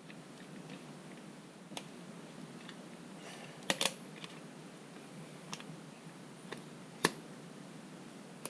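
A handful of sharp clicks and taps over a faint steady hiss: a close pair about three and a half seconds in, and the loudest single click about seven seconds in.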